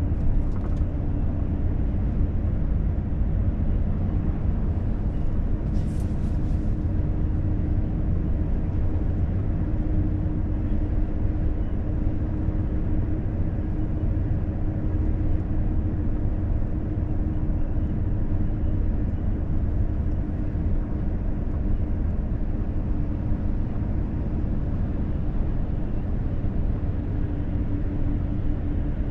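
Volvo FH truck cruising on a highway: steady engine and road rumble with a constant hum. A brief hiss cuts in about six seconds in.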